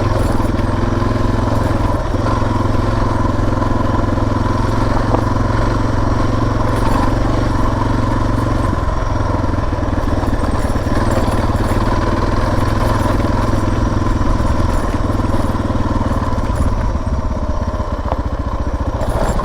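Suzuki DR650's single-cylinder four-stroke engine running steadily as the bike is ridden at an even pace.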